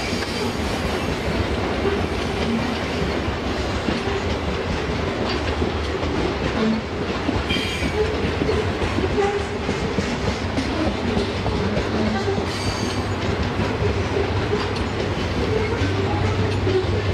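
Long freight train of covered hopper wagons rolling past, wheels clickety-clacking steadily over the rail joints, with a couple of brief high squeaks from the wheels. Near the end the low drone of a mid-train diesel locomotive grows louder as it comes by.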